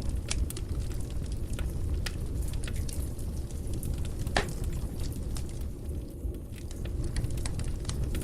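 Fireplace fire crackling: a steady low rumble of flames with scattered sharp pops, the loudest about four seconds in.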